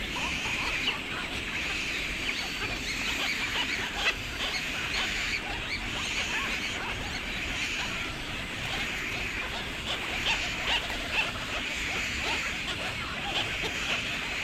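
Many birds giving short, overlapping calls: a steady chatter of brief, high notes.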